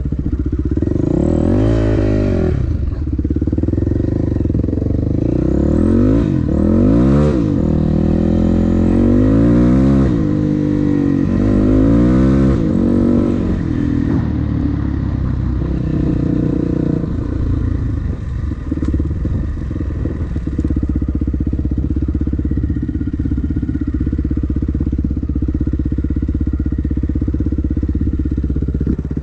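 Dirt bike engine being ridden, revving up and falling back again and again for the first half, then running more steadily at lower revs.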